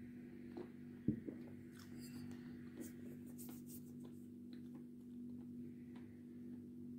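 Close-miked mouth sounds of chewing a bite of pressed edible clay: small wet clicks, smacks and scratchy crunches, the sharpest click about a second in, over a steady low hum.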